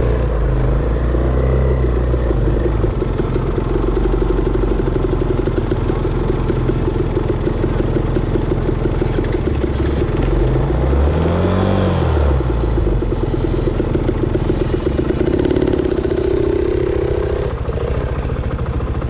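Dirt bike engine running, with one rev that climbs and falls back about two-thirds of the way through, then settling lower near the end.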